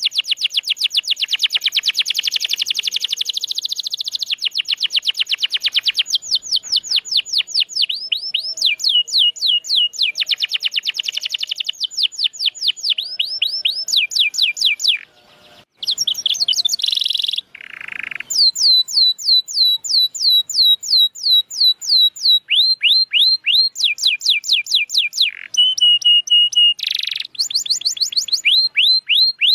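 Domestic canary singing in rapid trills of repeated downward-sweeping notes, switching from one trill to another every second or two, with a brief break about halfway.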